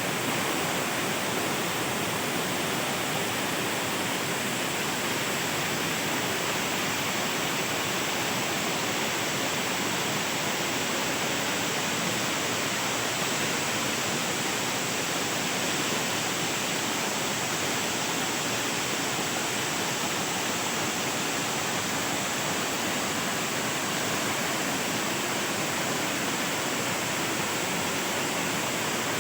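Waterfall's steady rush of falling water, an even noise that does not change.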